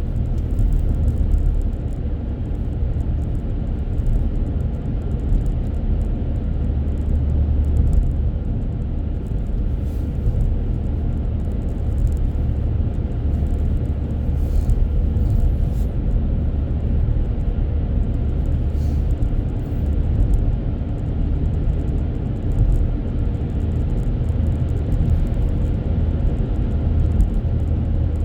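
Steady low rumble of a car driving at road speed, with engine and tyre noise inside the cabin.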